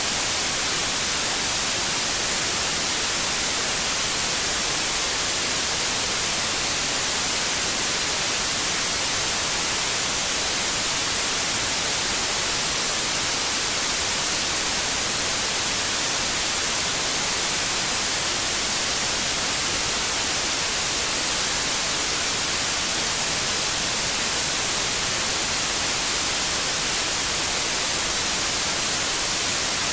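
Continuous white noise: a steady, even hiss, strongest in the high treble, that does not change.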